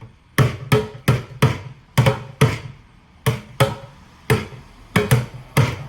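Buckets struck with sticks as makeshift drums: about a dozen hits in an uneven, halting beat, each a sharp smack with a hollow low thud.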